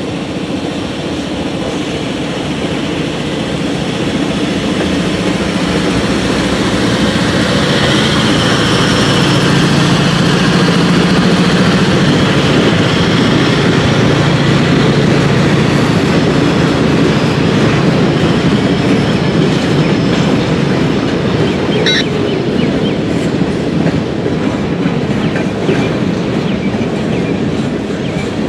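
Diesel-hauled freight train passing: the locomotives' engines swell to their loudest about ten seconds in, then the freight cars roll by with wheels clicking over the rail joints. A brief high wheel squeal comes about two-thirds of the way through.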